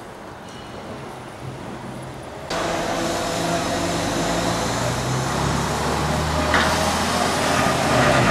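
Faint background, then about two and a half seconds in a train comes in abruptly, with a steady low engine hum and running noise that grows hissier near the end.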